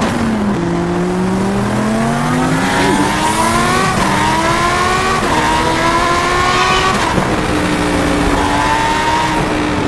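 A vehicle engine revving up through the gears: its pitch climbs, drops back at each of about four gear changes, and then holds steady near the end.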